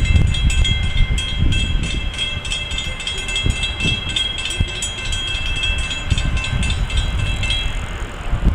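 Train running past with a steady low rumble from wheels and locomotives. A chord of steady high ringing tones, pulsing rapidly, carries on over it and stops about seven and a half seconds in.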